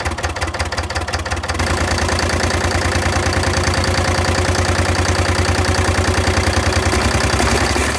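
Large Allis-Chalmers stationary diesel engine running with an even, rapid pulsing beat. It grows louder and steadier about a second and a half in.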